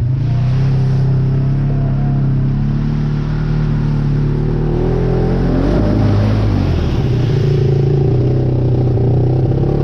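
ATV engine running hard at high revs while plowing through deep mud and water. The pitch dips and wavers about halfway through, then climbs back up.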